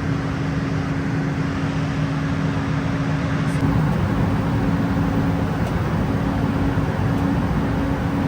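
Steady drone inside a private jet's cabin in flight: an even rush of engine and airflow noise with a constant low hum.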